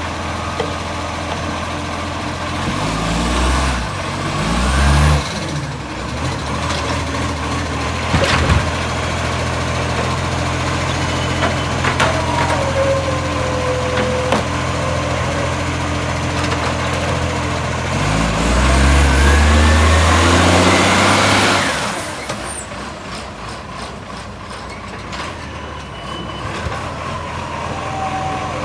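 Garbage truck's diesel engine idling, revved in two short bursts a few seconds in and again for a few seconds later on, with the exhaust leak blasting on the revs.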